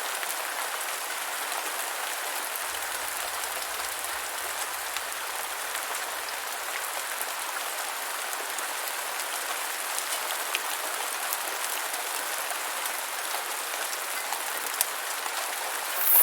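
Steady rain falling on a surface: an even hiss with a few faint drop ticks scattered through it.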